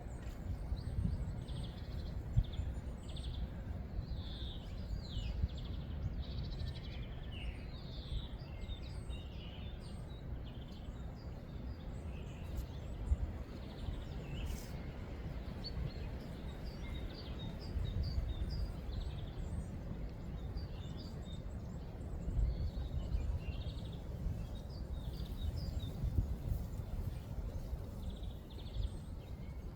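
Small birds chirping and twittering again and again over a constant low rumble.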